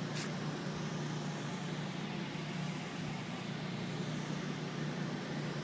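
An engine running steadily: an even low hum over a light hiss that does not change.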